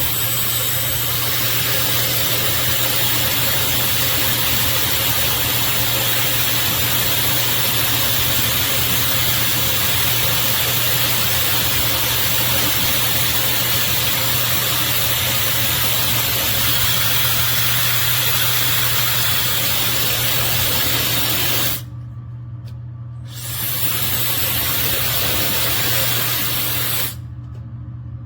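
High-speed hair dryer blowing, a loud steady rush of air. It cuts out for about a second and a half about 22 seconds in, comes back, and stops again near the end.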